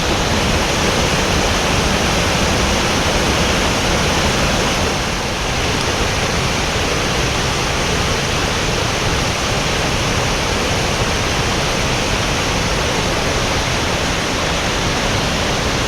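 Waterfall pouring heavily into its plunge pool, a loud, steady rush of falling water.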